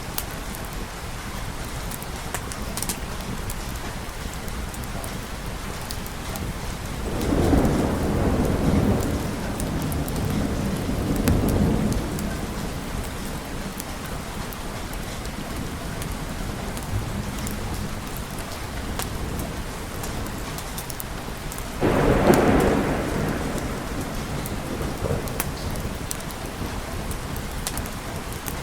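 Steady rain with two rolls of thunder: the first builds about a quarter of the way in and rumbles on for several seconds, and the second breaks more sharply about three-quarters of the way in and fades away.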